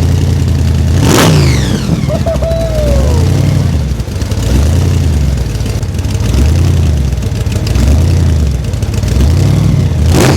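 Car engine revved up and down over and over, rising and falling about once a second. A sharp crack with a falling sweep comes about a second in and again at the end.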